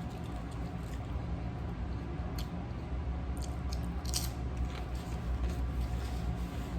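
A person chewing and biting a sub sandwich close to the microphone, with a few sharp wet mouth clicks, the strongest about four seconds in, over a steady low hum.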